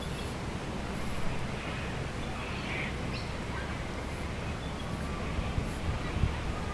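Outdoor ambience: a few faint, short bird calls over a steady low rumble, with a couple of soft knocks near the end.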